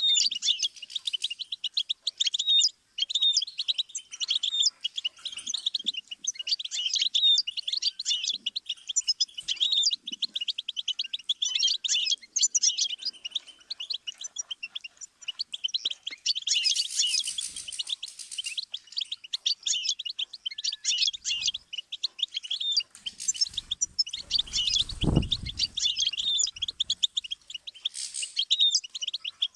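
Goldfinch singing a long, continuous song of rapid twittering trills and chirps, with a brief low thud about 25 seconds in.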